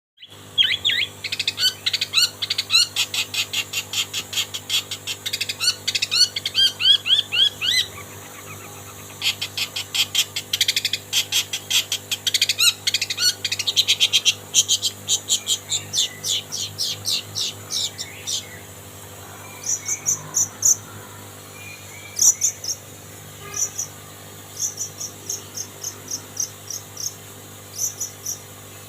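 Long-tailed shrike (cendet) singing a mimicked song: for about the first 18 seconds, fast runs of rapidly repeated sweeping notes with a brief break near 8 seconds, then short groups of high, quick chirps for the rest.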